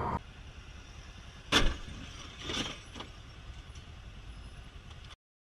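Low steady road and engine rumble from inside a vehicle, broken by a loud sharp bang about a second and a half in, typical of a car collision, then a weaker crunch and a small knock over the next second and a half. The sound cuts off abruptly near the end.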